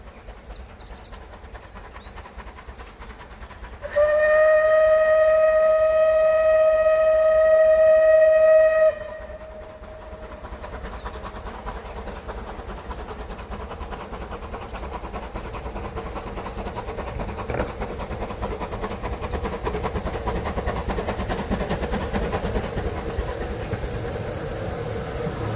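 Steam locomotive whistle blown once, one long steady note of about five seconds, loud. Afterwards the approaching steam train's running noise grows gradually louder.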